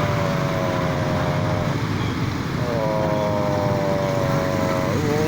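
Small motorcycle engines held at steady revs while riding through floodwater, over a constant low rumble. One engine note fades out a little under two seconds in, another comes in about a second later, and its pitch rises sharply near the end.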